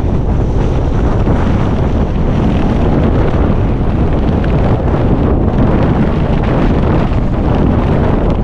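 Gale-force mountain wind buffeting the microphone: a loud, continuous low rumble and roar.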